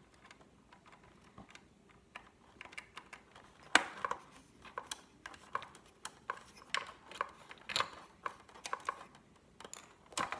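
Screwdriver work on the plastic motor housing of a Big Mouth Billy Bass, unscrewing the top motor: light, irregular clicks and taps, several a second, starting about two seconds in, with the loudest click about four seconds in.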